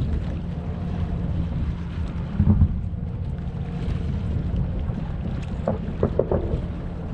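Distant aerial fireworks bursting: one dull boom about two and a half seconds in and a quick run of sharp cracks around six seconds, over a steady low rumble with wind on the microphone.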